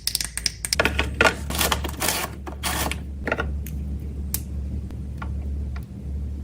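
Slime being pressed and squished by hand, giving a run of crisp crackling clicks and pops that come thick and fast at first and thin out after about three seconds, over a steady low hum.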